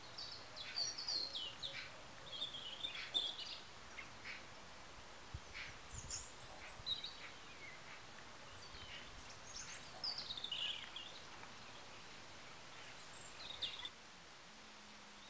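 Small birds chirping and calling in bursts of short high notes and quick falling phrases. The sound drops away abruptly about 14 seconds in, leaving a faint steady low hum.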